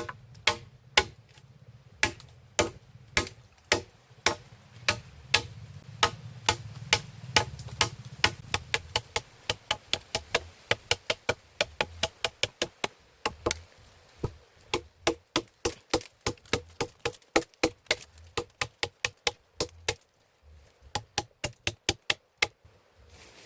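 A hand tool striking wood over and over in sharp knocks, about two a second at first, then quickening to three or four a second with short pauses, as in hammering or chopping during shelter building.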